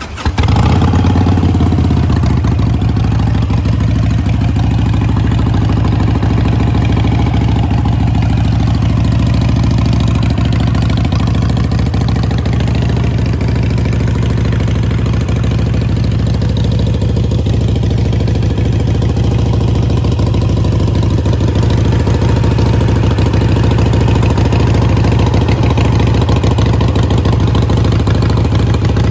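Harley-Davidson Sportster 883's air-cooled V-twin, fitted with Vance & Hines Short Shot exhaust, fires up just after the start and settles into a loud, steady idle.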